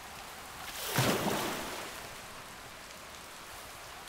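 Cartoon sound effects: a whoosh about a second in, then a steady soft hiss of falling rain.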